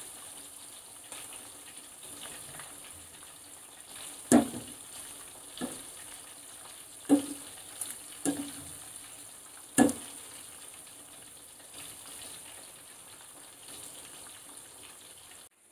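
Chicken pieces shallow-frying in coconut oil over a low flame, a steady sizzle. Five sharp knocks come in the middle as a plastic slotted spatula turns the pieces against the nonstick pan.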